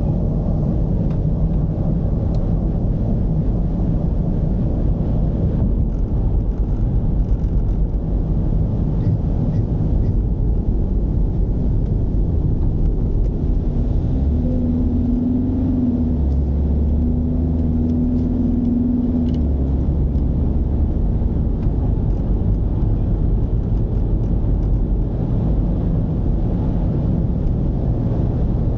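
Mercedes-Benz V220 d's four-cylinder diesel engine running while the van drives, a steady low rumble with road noise. Around the middle a stronger low hum comes in for several seconds, then eases back.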